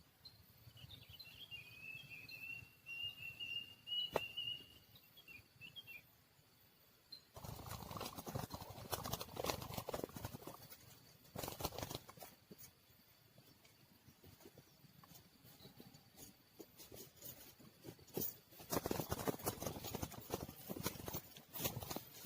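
A small bird's thin, wavering chirp for a few seconds, then on-and-off bursts of crackling, rustling noise that are the loudest part.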